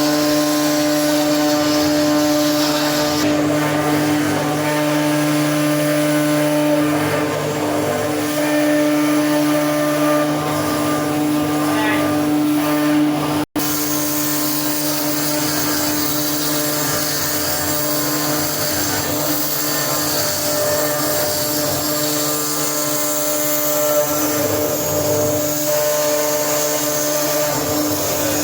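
CNC router spindle running steadily, carving a wooden door, with a constant whine and hum. The sound cuts out for an instant about halfway through, then carries on unchanged.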